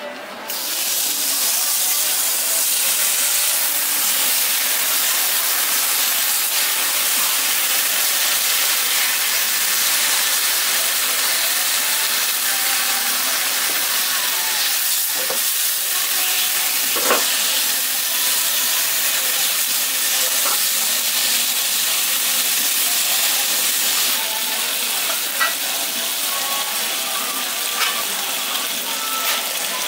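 Egg and strips of bacon frying on a hot flat-top griddle: a steady sizzle, with a few faint clicks.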